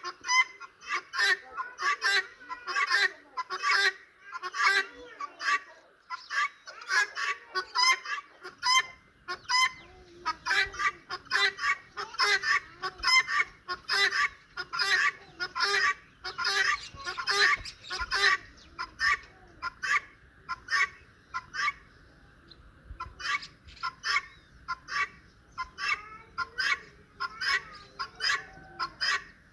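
Domestic turkeys calling in a steady stream of short, sharp calls, two or three a second.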